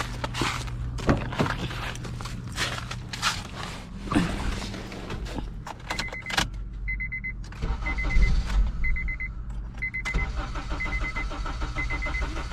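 A car's starter cranking the engine over without it catching: a car that cranks but won't start. A short warning chime beeps about once a second from about halfway in, after a few clicks and knocks at the start.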